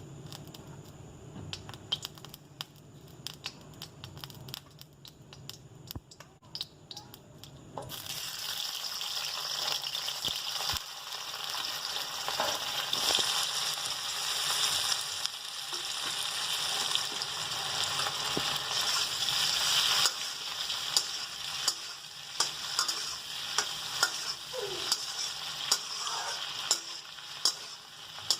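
Food frying in a hot pan. A loud sizzle starts suddenly about eight seconds in, as food goes into the hot oil. A spatula knocks against the pan, with more regular knocks about once a second later on while stirring.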